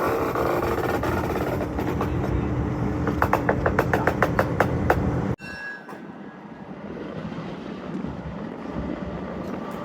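Railway equipment running on track, a steady rumble with a rapid run of clicks from the wheels over the rails, which cuts off suddenly about halfway through; quieter wind-like noise follows.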